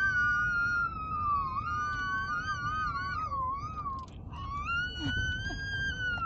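Children imitating a police-car siren with their voices: two long overlapping wails, one warbling up and down in the middle, then a single wail that drops away near the end.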